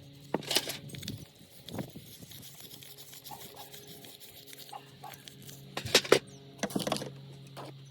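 Scattered clicks, taps and scrapes of small parts being handled, loudest about six to seven seconds in, over a steady low hum.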